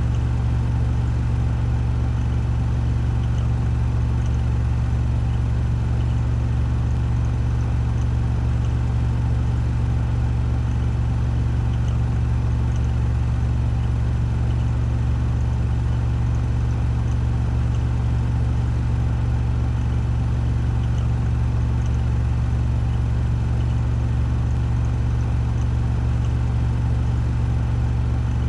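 Washing machine on a 1400 rpm spin cycle, its drum spinning at full speed with a steady, unchanging low hum and whir.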